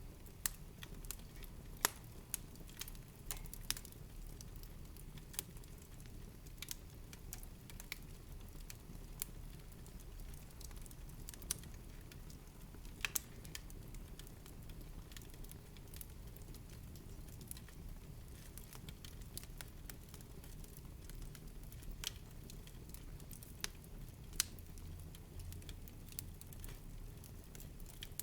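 Wood fire in a fireplace crackling: irregular sharp pops and snaps, a few louder ones, over a low steady rumble of the flames.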